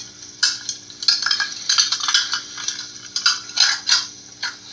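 Nested measuring cups clinking and rattling against each other as they are handled and separated, in quick irregular knocks.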